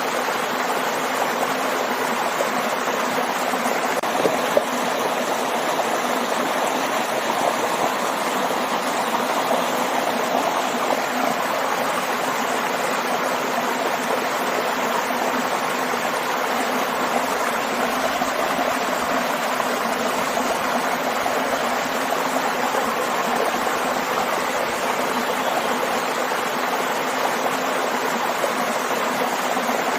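Stream and small waterfall: a steady, even rush of flowing water.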